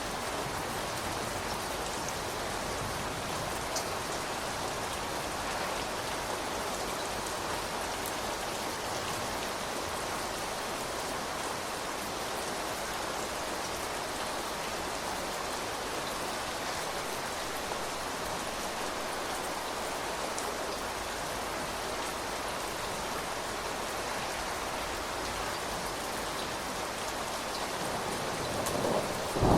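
Steady rain falling, an even hiss of raindrops. Near the end a louder rumble of thunder begins to build.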